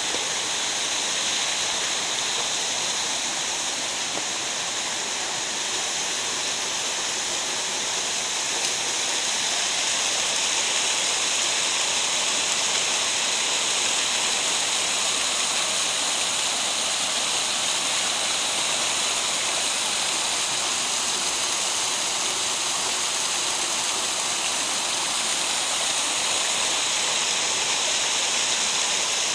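Steady rush of water flowing down a mountain gorge, an even hiss with no breaks.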